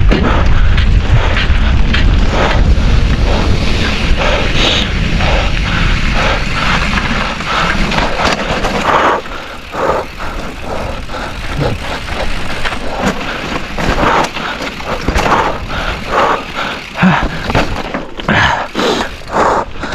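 Mountain bike riding down a rough trail, heard from a rider-mounted microphone. Wind buffets the microphone for the first nine seconds or so. After that the rumble drops away and the bike's knocks and rattles over the bumpy ground come through.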